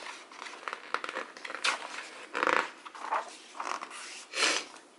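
A person sobbing and whimpering in short breathy gasps, about five of them, acting out a small character's crying.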